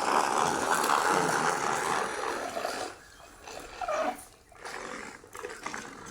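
Remote-control toy tractor running: a steady buzzing whirr that goes on for about three seconds and then stops, with a short, quieter sound about four seconds in.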